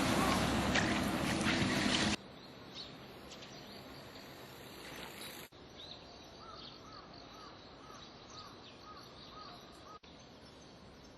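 A two-car Kintetsu Series 21 electric train running loudly over the level crossing, with wheel clatter, cut off abruptly about two seconds in. After that, a low steady outdoor hush with a faint chirp repeating about twice a second.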